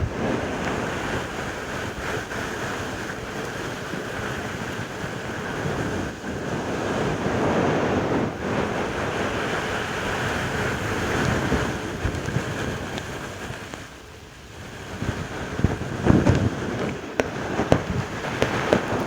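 ASMR mouth sounds close to the microphone: a breathy, wet noise that swells and fades, drops away about fourteen seconds in, then returns with sharp clicks and pops near the end.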